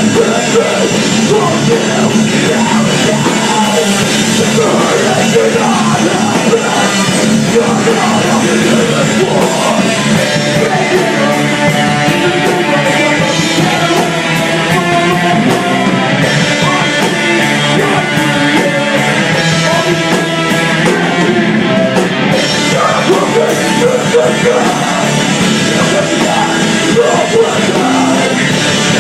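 Rock band playing a heavy song live, loud and dense without a break.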